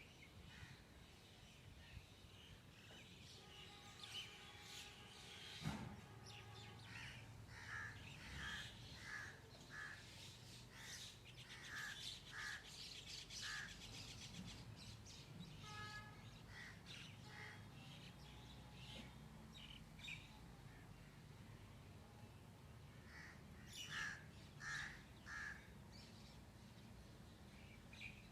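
Birds calling, faint: runs of short repeated calls about two a second, one run near the middle and another near the end, with thinner chirps between. A single sharp knock about six seconds in.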